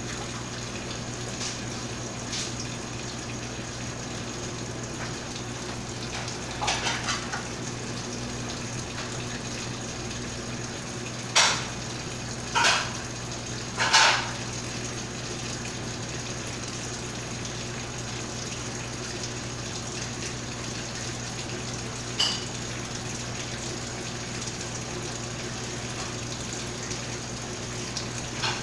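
Mabe Multiprática top-load washing machine filling with water: a steady rush of water into the tub with a steady low hum underneath. A few short knocks come through, three of them close together near the middle.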